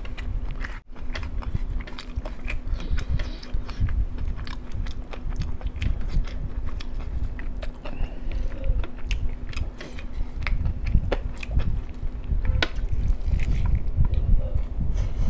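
Close-miked eating: chewing a mouthful of masala rice eaten by hand, with many short sharp mouth clicks and smacks throughout.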